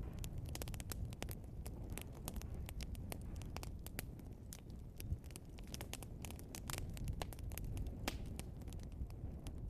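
Wood fire burning logs: a steady low rumble of flames with frequent irregular sharp crackles and pops.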